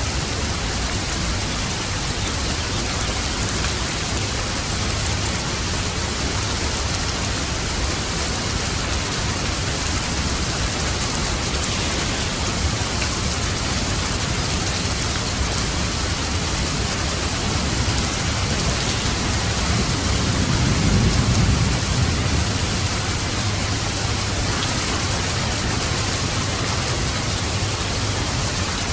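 Steady, dense rainfall hissing and pattering without a break. About twenty seconds in, a low rumble swells for a few seconds and fades back under the rain.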